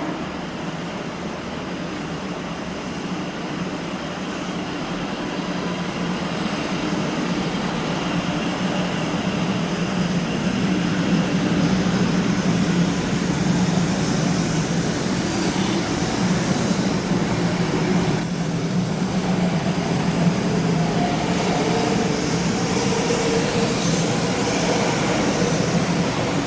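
500-series Shinkansen electric train moving through the station. Its running and traction-motor noise builds over about the first ten seconds, then holds steady with a faint whine.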